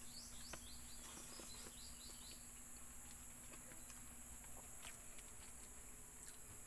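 Faint outdoor rural background: a steady high insect drone, with a bird giving a quick series of short, downward-sliding chirps during the first two seconds or so. A few soft clicks are also heard.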